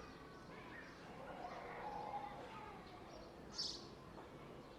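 Park ambience: faint voices of people under a steady outdoor hum, with birds chirping and one short, high chirp about three and a half seconds in.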